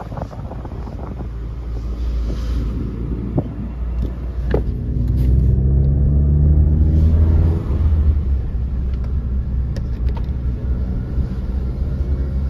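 2018 VW GTI S's turbocharged 2.0-litre four-cylinder, with catted downpipe, turbo intake and stock mufflers, heard from inside the cabin. The engine pulls with a rising pitch and growing loudness for a couple of seconds, eases off sharply about two-thirds of the way in, then cruises steadily.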